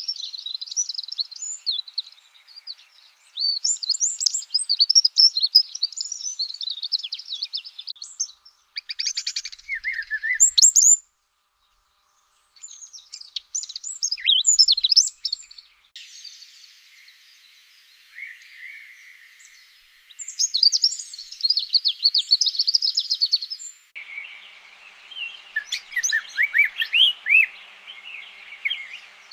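Small birds chirping and twittering in quick, high notes, in several stretches that change abruptly from one to the next, with a brief silence about eleven seconds in.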